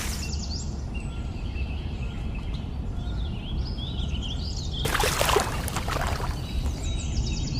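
Steady low outdoor background rumble, with small birds chirping faintly in the middle and a brief louder rustling or scraping noise a little after halfway.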